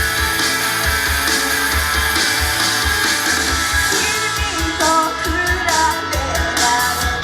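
Rock-style idol pop song playing loud in a live club: driving electric guitar over a steady drum beat, with a sung vocal line coming in about four seconds in.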